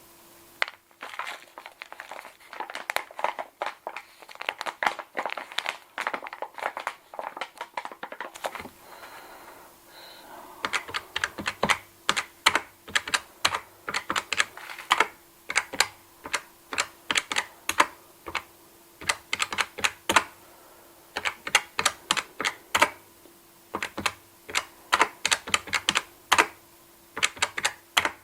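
Cash register keys being pressed in quick runs of sharp clicks, several a second, with a short pause about nine seconds in.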